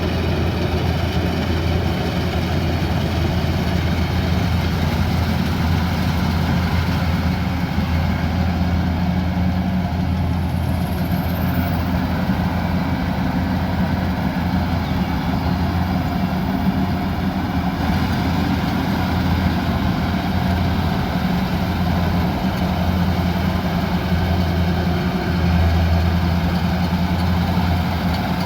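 Kubota combine harvester's diesel engine running steadily as the machine works, a constant low drone.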